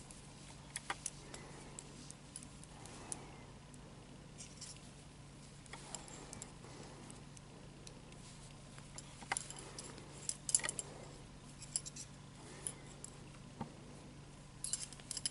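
Knitting needles clicking and tapping lightly and irregularly as stitches are knit, with small flurries of clicks around nine to eleven seconds in and again near the end. A faint steady hum runs underneath.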